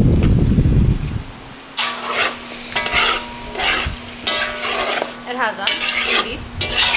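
Curried chicken sizzling in a pot while a spoon stirs and scrapes it in short strokes, as the chicken's own water cooks off. A loud low rumble comes in the first second.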